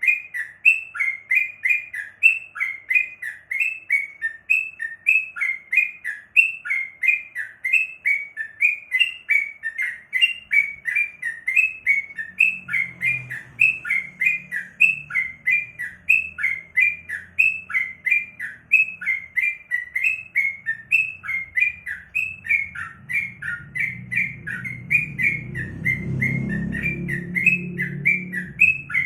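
Yellow-vented bulbul (crukcuk) calling in an unbroken run of short chirping notes, about three a second. A faint low rumble comes in partway through and grows louder near the end.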